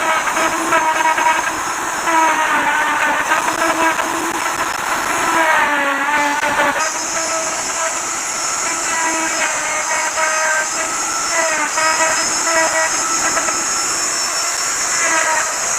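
Electric wood router running and cutting into wood, its motor note dipping in pitch and recovering again and again as the bit bites, over a steady high hiss that grows louder about halfway through.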